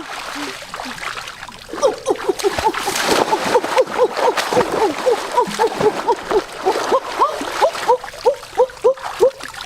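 Splashing water, with a rapid run of short, rising-and-falling animal calls starting about two seconds in, about three or four a second.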